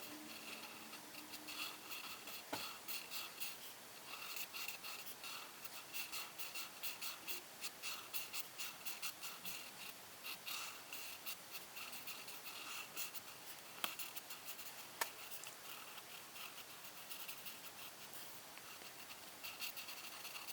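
Coloring strokes on paper: rhythmic scratching, about two to three strokes a second, busiest in the middle, with a few light clicks.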